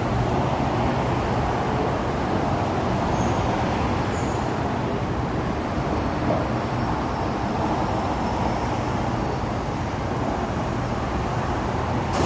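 Steady running noise heard inside a Bangkok MRT Pink Line monorail car, a low hum with an even rumble and no sharp events.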